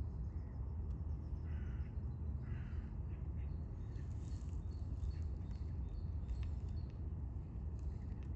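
Birds calling: two short harsh calls about one and a half and two and a half seconds in, then a run of short high chirps, over a steady low rumble.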